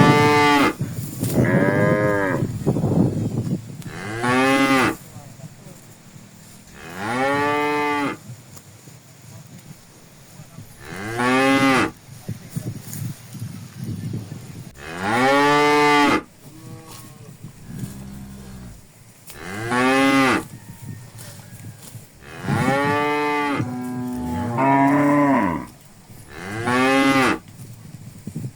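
Cattle mooing again and again: about ten long calls of roughly a second each, every one rising and then falling in pitch, with short quiet gaps between them.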